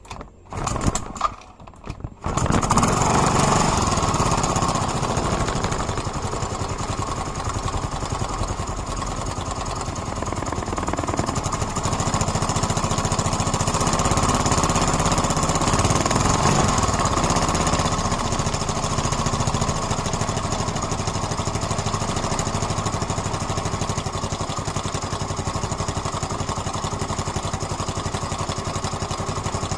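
Yamaha Mio M3 scooter's single-cylinder engine running steadily after a few short loud sounds in the first two seconds, with a strange ticking noise that the owner wonders may be valve (tappet) noise.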